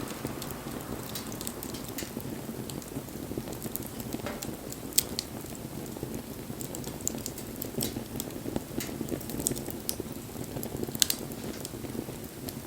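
Wood bonfire burning: a steady low rush of flame with scattered crackles and pops, two sharper pops about five and eleven seconds in.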